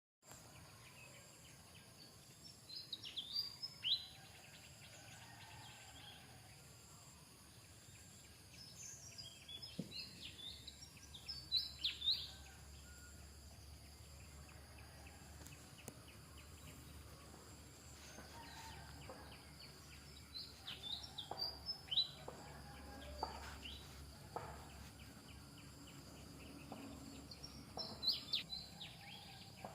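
Birds chirping in short clusters of high, quickly falling chirps every several seconds, over a faint steady outdoor background hiss.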